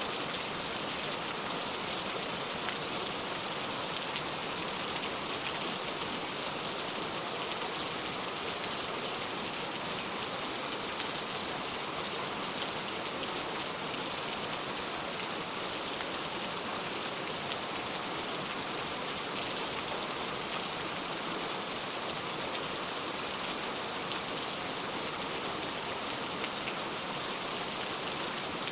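Steady rain falling on the ground, an even hiss of many fine drops.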